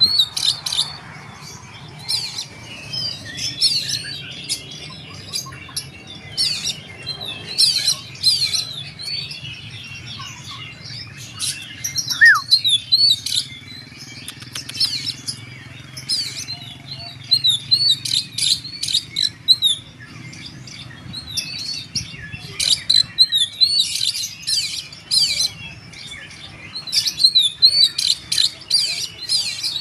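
Oriental magpie-robin (kacer) singing loudly in repeated bursts of sharp, rapid notes and short whistled sweeps, with brief pauses between phrases.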